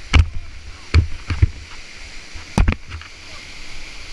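Steady rush of river water at a waterfall, broken by four or five sharp, heavy thumps: one just after the start, two about a second in, and another past the middle.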